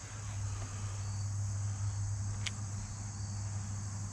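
Crickets chirring steadily, with a louder low steady hum underneath and a single sharp click about two and a half seconds in.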